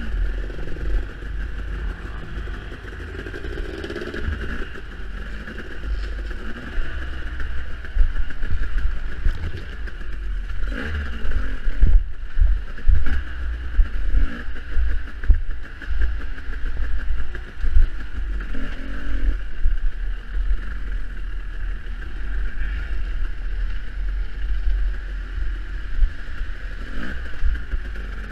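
Off-road dirt bike engine on a harescramble trail, revving up and dropping back again and again, over heavy low rumble and scattered knocks from the rough ride.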